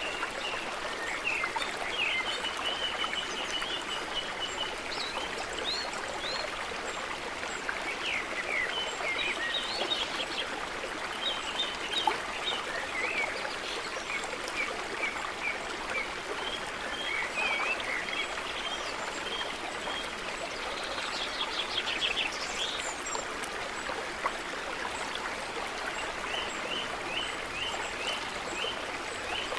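A stream running steadily, with several small birds chirping and trilling over it throughout.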